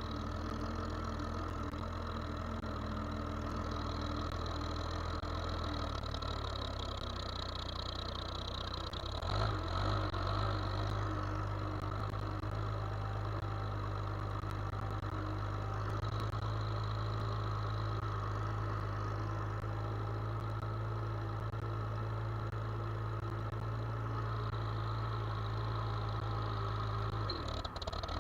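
Engine of farm harvest machinery running steadily; its note changes and briefly gets louder about nine seconds in.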